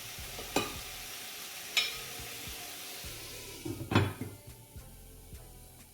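Chicken pieces sizzling in a metal pot, cooking dry without oil while the water they release boils off. A utensil clicks against the pot twice early on and knocks it louder about four seconds in, after which the sizzle grows fainter.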